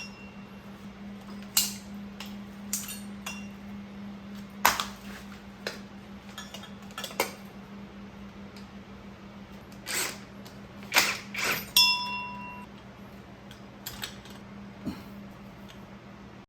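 Metal tools and motorcycle parts clinking and knocking during disassembly, in scattered single strikes, one of them ringing briefly about twelve seconds in, over a steady low hum.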